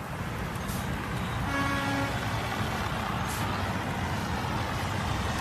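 A motor vehicle's engine running steadily, with one short horn toot about a second and a half in.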